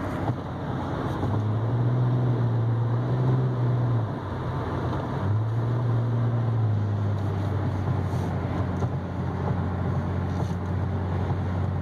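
Cadillac ATS V6 engine pulling with tyre and road noise under way. Its note climbs, drops about four seconds in as it shifts up, climbs again, then holds steady.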